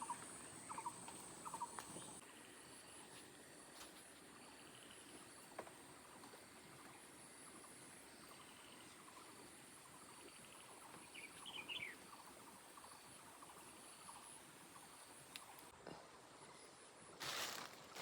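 Near-silent rural ambience: a faint, steady high insect drone. Over it come a few short chirps in the first two seconds, one falling chirp about midway, and a brief rustling noise near the end.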